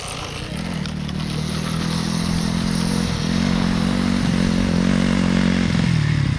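Yamaha YZ250F four-stroke single-cylinder dirt bike engine running as the bike approaches, growing steadily louder, its pitch dipping briefly twice as the throttle is rolled off and back on. It drops away suddenly near the end as the rider backs off.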